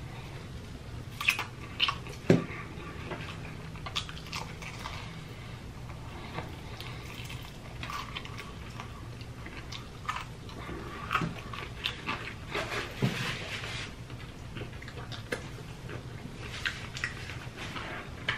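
Close-up chewing and biting of crispy fried chicken: a run of short mouth clicks and snaps, the sharpest bites about one to two seconds in, with more around the middle.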